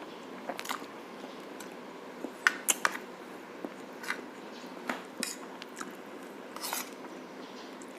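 Eating utensils clinking and tapping against a plate, in irregular single clicks, with a quick run of three sharp clinks a little before the middle.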